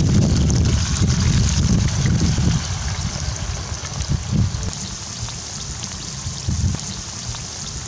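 Potato wedges sizzling in hot oil in a cast iron pan, a steady frying hiss. A low rumble under it fades out about two and a half seconds in.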